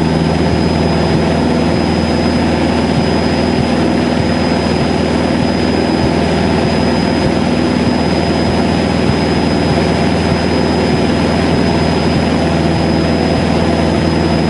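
Cessna 152's four-cylinder piston engine and propeller running steadily, heard inside the cabin, with a thin steady high whine over the drone.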